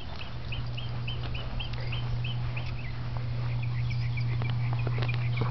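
A bird calling: a quick run of short, high chirps, about four a second, then more scattered chirping, over a steady low hum.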